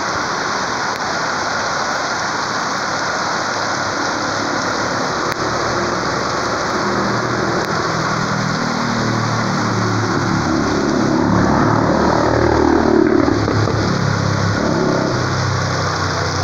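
Heavy rain coming down hard, a steady din, with water from a roof spout splashing onto the pavement. From about halfway through, a car engine rises over the rain, loudest about three-quarters of the way in, then fades.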